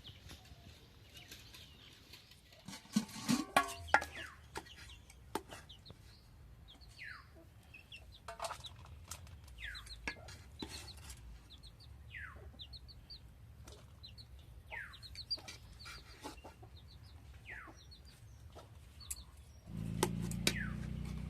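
Chickens clucking, with a flurry of louder squawks and sharp clicks about three seconds in. A short falling call repeats every two to three seconds, and a low steady hum comes in near the end.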